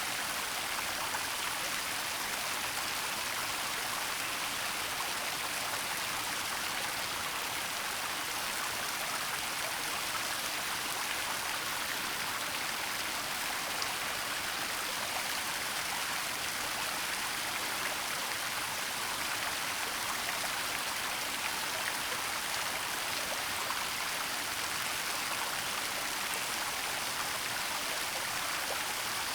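Waterfall in a forest: a steady, even rush of falling water, mostly high hiss with little low rumble.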